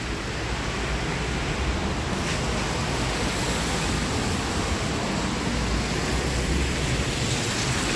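Steady rushing noise of rain outdoors on a wet street, with a low rumble that swells a little about five to seven seconds in.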